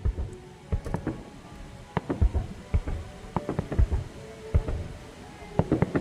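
Fireworks going off: an irregular run of sharp, deep bangs, a dozen or more, each with a short rumble after it.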